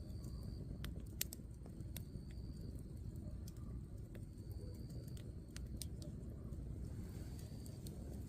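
Firewood burning in a campfire, with scattered sharp pops and crackles over a low steady rumble.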